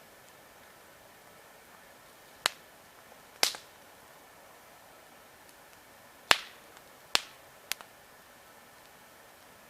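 Wood logs in a campfire crackling: five sharp, loud pops over a faint steady hiss, two about a second apart, then three close together a few seconds later.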